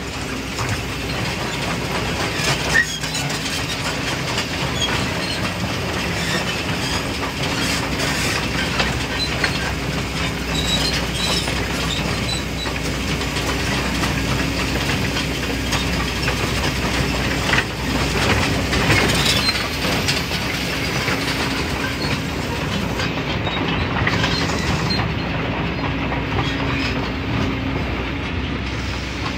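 Excavator's diesel engine running steadily, with a constant hum and scattered clanks and rattles of its machinery working sand and stones.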